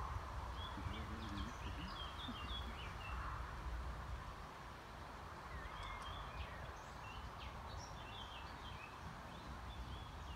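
Small birds chirping, many short calls scattered throughout, over a steady low rumble of outdoor background noise.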